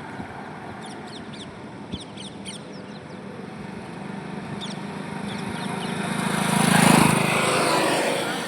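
Highway traffic ambience, with one vehicle approaching and passing close. It grows louder to a peak about seven seconds in, where a low engine hum sits under tyre and road noise, then fades. Short high chirps sound in the first few seconds.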